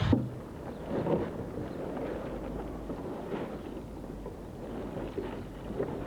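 A sharp click at the start, then wind buffeting the microphone outdoors, with an uneven low rumble and gusts.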